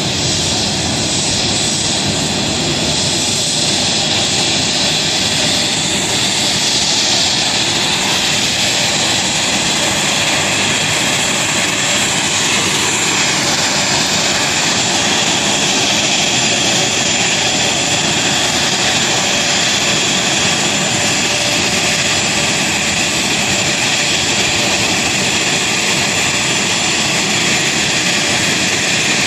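An airliner's engines running steadily as it taxis: a loud, even rushing noise with a steady high whine over it.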